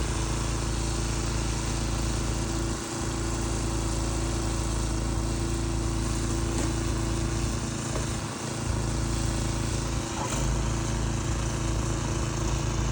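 A motor running steadily with a constant low drone and hum, dipping briefly a few times.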